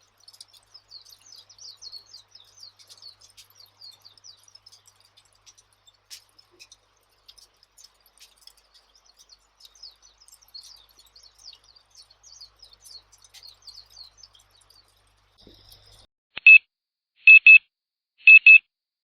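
Faint, high twittering chirps throughout, then an electronic timer beeping loudly in three short bursts near the end, the alarm marking the end of a 15-minute study session.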